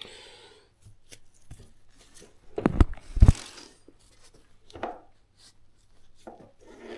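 Hands handling small workshop parts: scattered light clicks and rustles, with two heavier knocks about three seconds in.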